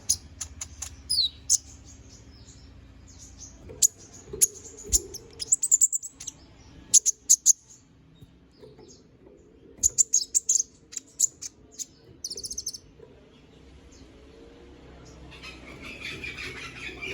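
Konin, a small songbird, giving short, sharp high-pitched chirps in quick clusters separated by pauses, with a brief rapid trill about twelve seconds in. A soft hissing rustle comes in near the end.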